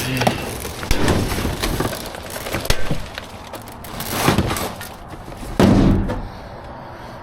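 Hard scrap being handled and pried apart by hand: a series of separate knocks and rattling clatters, with a louder clatter about two-thirds of the way through.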